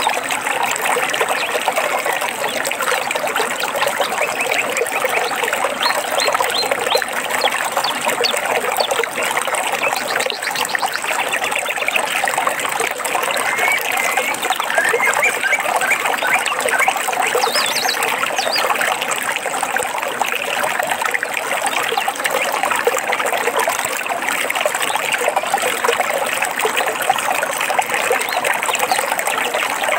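Running stream water trickling and splashing steadily, with a few faint bird chirps now and then.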